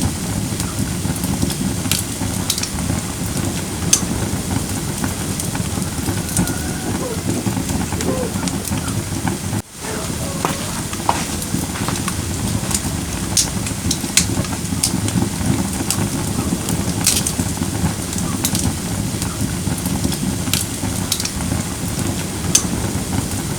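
Firewood burning in a fire-pit brazier: a steady low rustle of flames with irregular sharp crackles and pops, roughly one or two a second. The sound drops out for a moment near the middle.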